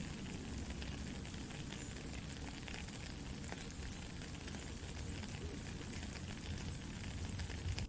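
Soft steady rain hissing, mixed with a campfire crackling, with small scattered pops from the fire.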